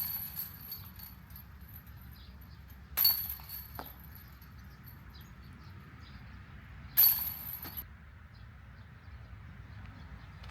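Golf discs striking the hanging chains of a disc golf basket, three times about four seconds apart, each a sharp metallic jangle that rings briefly and dies away.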